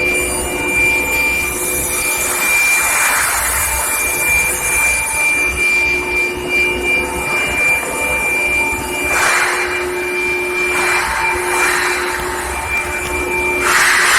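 Induction heating furnace line for seamless steel pipe running: a steady high whine made of several fixed tones, under a rasping scrape that swells and fades, loudest about nine seconds in and again near the end.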